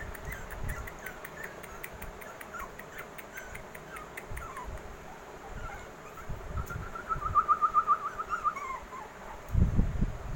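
Pomeranian puppies whining with short high-pitched falling squeaks. About two-thirds of the way in comes a fast run of squeaks that slides down at the end. A few low thumps come near the end.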